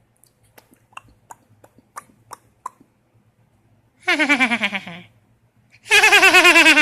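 A few soft mouth clicks, then a young child's two loud, wavering vocalizations, the pitch wobbling rapidly like a bleat; the first, about four seconds in, slides down in pitch, and the second starts near the end.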